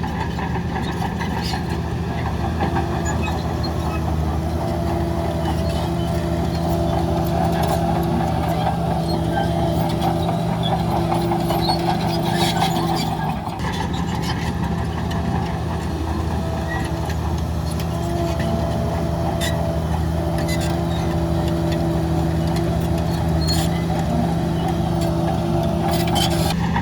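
Diesel engine of heavy earthmoving machinery running steadily at a constant speed, with scattered light clanks and clicks over it.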